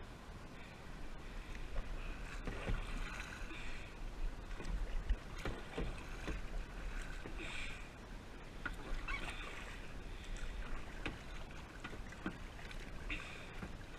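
Kayak paddle strokes through the water: a splashing swish about every two seconds, with occasional light knocks.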